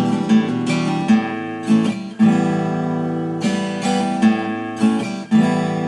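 Acoustic guitar strumming chords, a new strum roughly every half second to a second, with no singing.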